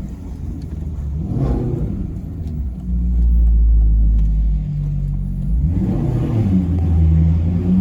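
Maserati Quattroporte Sport GT's V8 engine: a quick rev flare about a second and a half in, then a loud, low, steady drone, and the revs climb again near the end.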